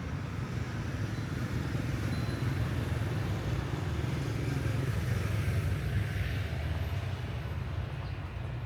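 Street traffic: a steady low engine drone from motor vehicles going by.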